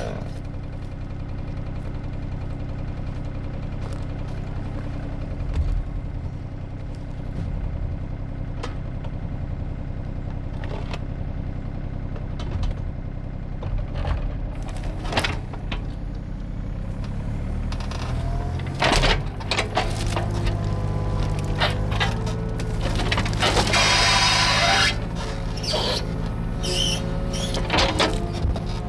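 Excavator's diesel engine running steadily, with scattered cracks and snaps of brush and wood being broken, more of them in the second half, and a louder crashing rush a little past the middle.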